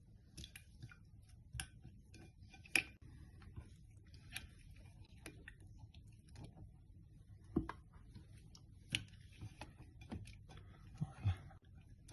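Irregular small clicks and taps, with a few sharper knocks, over a faint low hum: small objects being handled.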